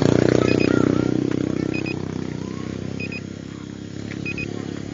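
A motorcycle engine running close by, loudest at first and fading over the first two seconds as it moves away. A faint high electronic double beep repeats about every second and a quarter.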